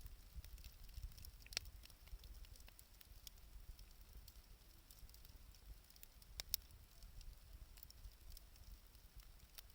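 Wood campfire crackling quietly, with scattered small pops and two sharper pops about a second and a half in and six and a half seconds in.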